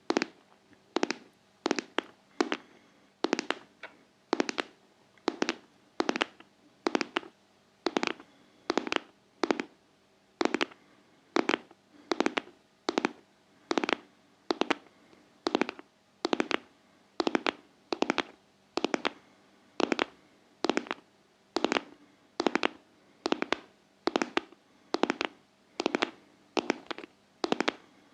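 ASMR fingertip tapping on a hard object in a steady, even rhythm of about two sharp taps a second, each with a short ring.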